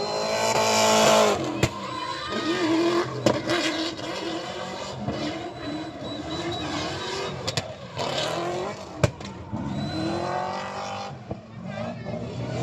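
Car engine revving, its pitch climbing and falling near the start and again about ten seconds in, with a few sharp cracks in between.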